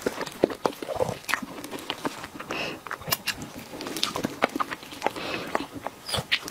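Close-miked mouth sounds of eating a soft taro-cream and boba dessert: wet lip smacks and soft chewing clicks, several a second, with no crunch.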